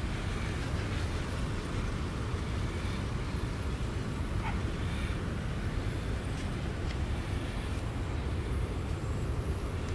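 Steady outdoor ambient noise with a strong low rumble and an even hiss, with no distinct events.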